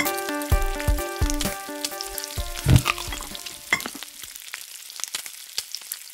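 Outro music with a steady beat fades out over the first three seconds. It gives way to the crackling sizzle of food frying in a pan, with scattered pops.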